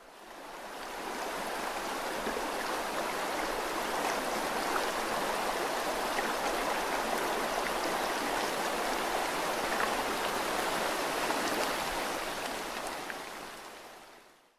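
Steady rushing noise with faint scattered ticks, like rain or running water. It fades in over about two seconds, holds, and fades out near the end.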